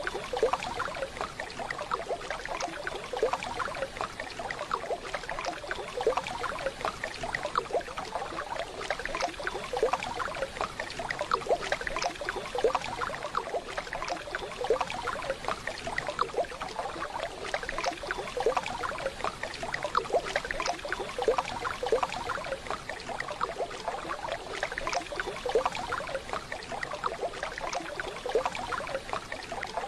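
Waterfall: steady running and splashing water, a dense, even crackle with no pauses.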